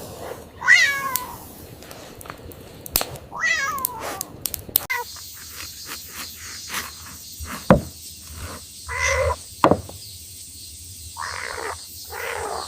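Kitten meowing a few times in short, pitch-bending calls, with a few sharp knocks in between.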